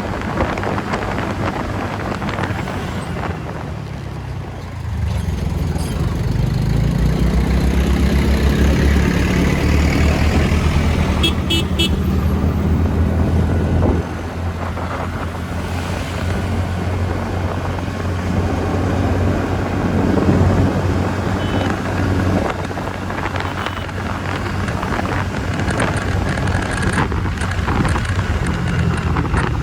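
TVS Ntorq 125 scooter's single-cylinder engine running at road speed under a steady rush of wind and road noise. Its pitch rises about five seconds in as it speeds up. A brief pulsed horn toot sounds about eleven seconds in.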